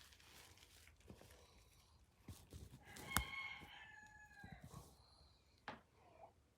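A chicken crowing once, a drawn-out call of about two seconds. A sharp click comes near its start and a short knock about a second after it ends.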